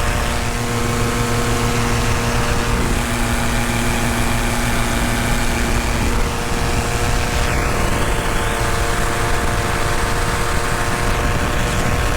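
Paramotor engine and propeller running steadily in flight, an even drone with a constant hiss of air.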